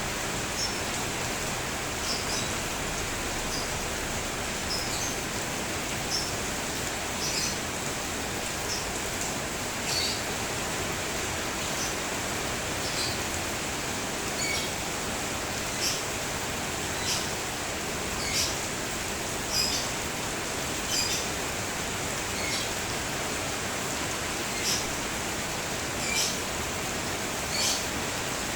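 Steady rain falling, with a bird chirping a short call over and over, about once every second and a half.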